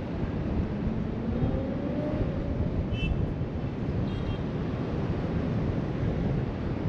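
Ocean surf breaking along the beach below, with wind buffeting the microphone in a steady rush. A faint engine-like tone rises in pitch during the first couple of seconds, and two short high chirps come about three and four seconds in.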